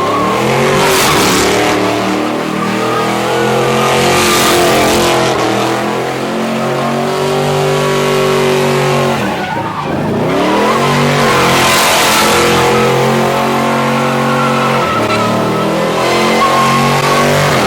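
A car doing donuts: the engine is held at high revs, drops and climbs back about ten seconds in, and the tires squeal and hiss in waves as it spins.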